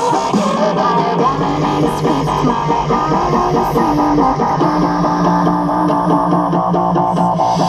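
Guitar rock music played loud through a car audio system's front stage: three pairs of DB-M80 midbass speakers wired in parallel at 1.33 ohms, with a pair of DB-T35 tweeters.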